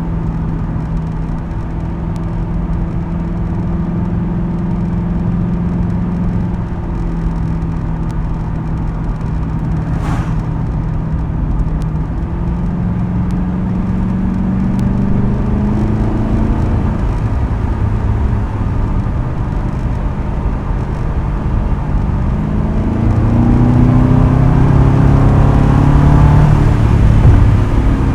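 Ford Crown Victoria Police Interceptor's 4.6-litre V8 running through a custom exhaust with quad tips while driving. The engine note holds steady, then rises twice as the car accelerates, the second time louder, near the end. A brief click about a third of the way through.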